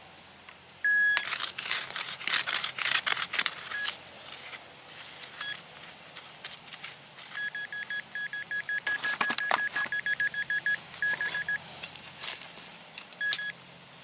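Metal detector beeping on a target: a short beep, then a rapid run of beeps, about nine a second, as the target is closed in on, with a few single beeps near the end. Between them, a digging tool crunches and scrapes through turf and soil, loudest about one to four seconds in.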